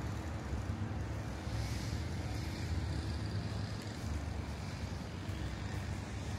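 City street traffic: a steady low rumble of engines and tyres, with a vehicle passing about two seconds in.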